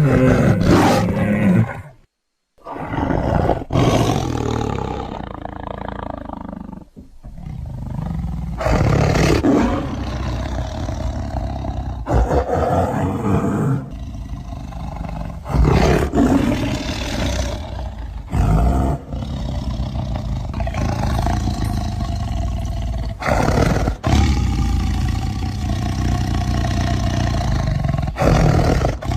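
Tiger roaring over and over, a string of separate recordings joined with abrupt cuts and one brief silent gap about two seconds in.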